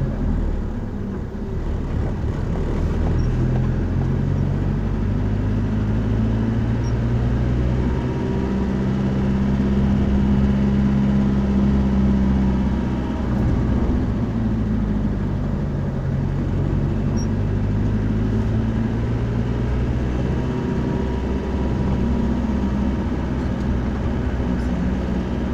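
A road vehicle's engine running as it drives, with a steady low drone whose pitch slowly rises and falls.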